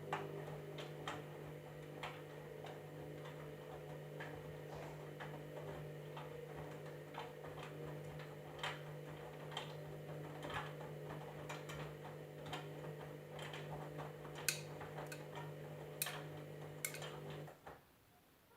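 Candy washing machine running mid-cycle: a steady motor hum with irregular clicks and taps on top, which stops abruptly near the end.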